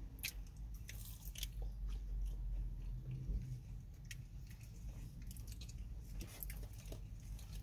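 Close-up chewing and biting of fried chicken, with many short clicks and smacks of the mouth over a steady low background rumble.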